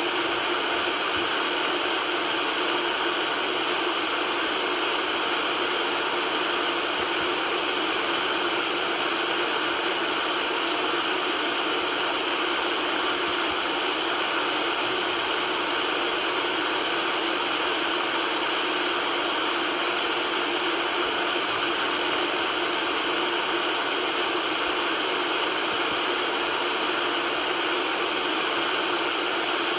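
Steady white noise for soothing a baby: an even hiss with little bass, unchanging in level.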